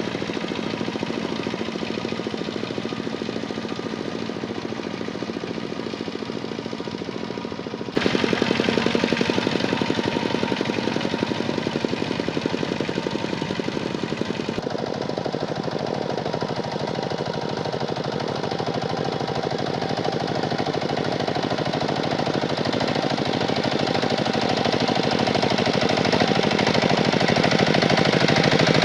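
Kubota tractor's diesel engine running under load, a fast steady chugging pulse. The sound jumps abruptly in level and tone about 8 and 15 seconds in, then slowly grows louder.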